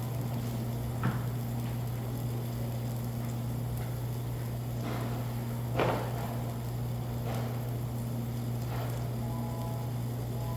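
Steady low hum of a dining room with a few light clinks and knocks of spoons and dishes at a table; the loudest comes about six seconds in.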